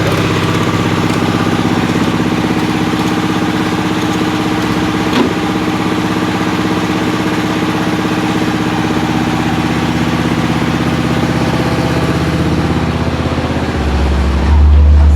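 Very loud horeg sound-system speaker stack playing long held low chords, with a much heavier deep bass tone coming in near the end.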